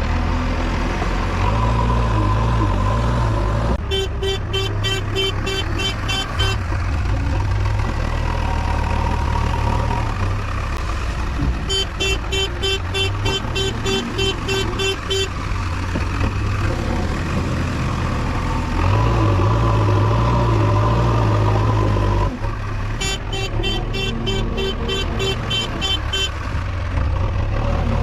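Diesel engine of a JCB 3DX backhoe loader running and revving up and down as it works. A fast-pulsing reverse alarm beeps in three separate bursts of a few seconds each.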